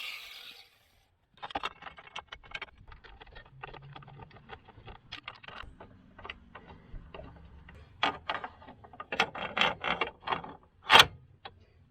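Irregular clicks and knocks of hand tools and metal parts being handled, growing busier toward the end, with one sharp knock the loudest.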